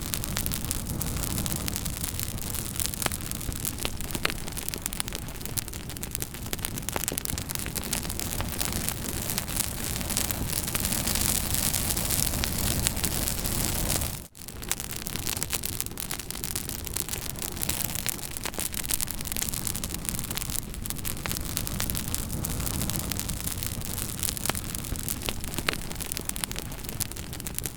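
Campfire burning with steady crackling: scattered sharp pops and snaps over a continuous hiss and low rumble. About halfway through the sound drops out almost completely for a split second, then picks up again.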